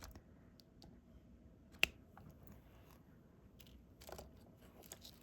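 Faint taps and small clicks of a diamond painting stylus picking up and pressing resin drills onto the adhesive canvas, with one sharper click about two seconds in and a short cluster of taps near the end.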